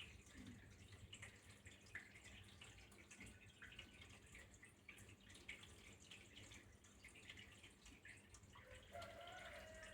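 Water dripping and trickling, faint, with irregular small drops. A brief faint pitched tone sounds near the end.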